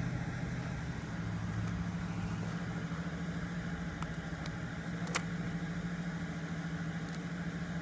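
A car engine idling steadily with a constant low hum, with a few faint clicks over it.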